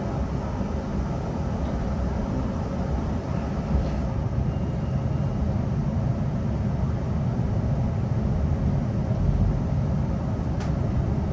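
Interior running noise of a Queensland Rail NGR electric multiple-unit train in motion: a steady low rumble of wheels on the track, with a single sharp click near the end.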